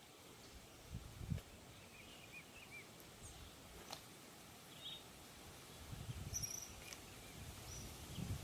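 Quiet forest ambience with scattered short bird chirps and whistles. A few low muffled bumps come about a second in and again around six to seven seconds.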